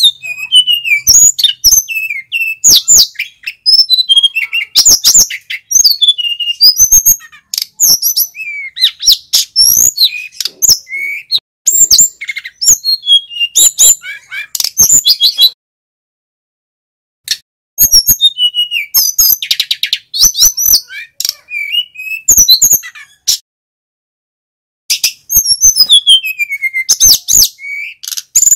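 Male sikatan gunung flycatcher singing a loud, varied song of quick chirps, whistled sweeps and trills, in long runs broken twice by short silences.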